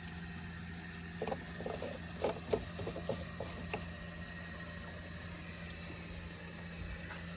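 JCB 3DX backhoe loader's diesel engine running steadily, with a constant high insect drone over it. A handful of short knocks come between about one and four seconds in.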